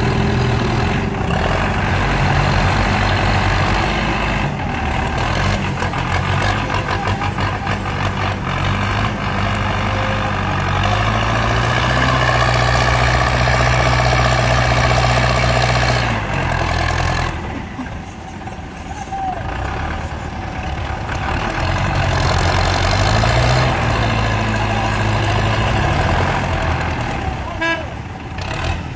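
Tractor engine running hard, revving up about a third of the way in and holding high, easing off for a few seconds, then revving up again: a stuck tractor straining to pull free.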